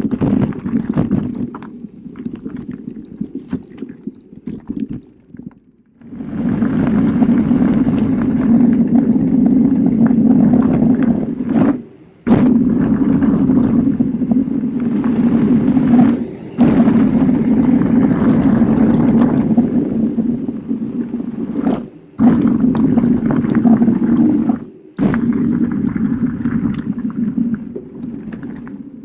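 Riding noise of an e-mountain bike on a forest trail: steady rumble of tyres over the ground with scraping and rattling. It is patchy for the first few seconds, then runs loud and is cut off abruptly several times.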